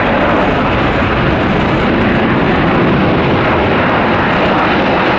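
A jet airliner's engines: a loud, steady rush of jet noise.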